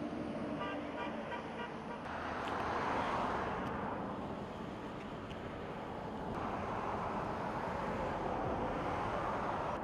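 A quick run of short horn toots about a second in, then road vehicles passing by in two swells of rushing noise.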